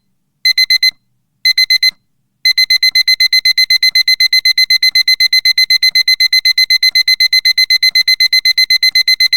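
Digital alarm clock beeping, with the countdown at zero: first short groups of four quick high beeps about once a second, then from about two and a half seconds in a continuous fast run of beeps.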